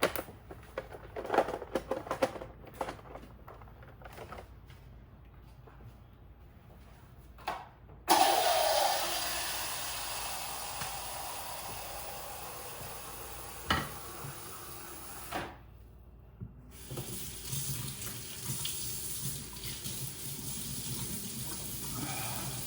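A few clicks and knocks of handling, then a water tap turned on about 8 seconds in, running steadily into a sink. The water stops for about a second and then runs again.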